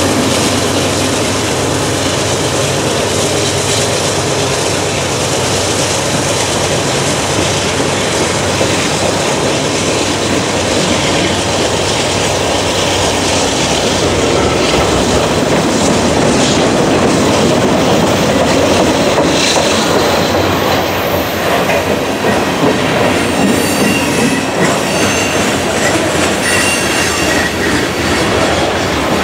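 Freight train cars (tank cars and covered hoppers) rolling past close by: steady wheel-on-rail rumble and clickety-clack over the rail joints, with brief high wheel squeals near the end.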